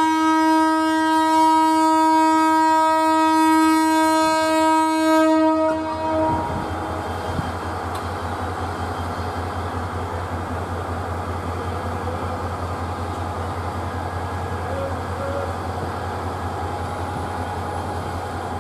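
Diesel locomotive's air horn sounding one long, loud blast that cuts off about six seconds in. The locomotive's diesel engine then runs on with a steady low, pulsing rumble.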